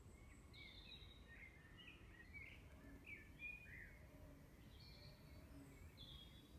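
Faint woodland birdsong: many short chirps and whistled notes from small birds, over low, steady background noise.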